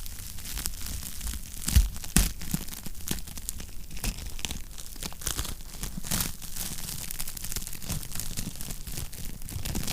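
Wood fire crackling in a fireplace: a steady scatter of small snaps and pops, with two louder pops about two seconds in, over a low rumble.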